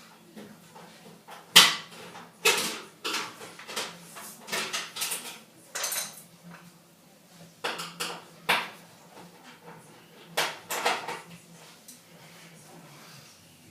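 Irregular metallic clinks, knocks and short scrapes, a dozen or so, from a screwdriver and screws being worked out of a front-loading washing machine's sheet-metal front panel.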